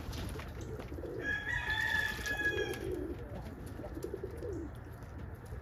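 Domestic pigeons cooing in low, repeated murmurs. A steady high-pitched tone sounds for nearly two seconds about a second in.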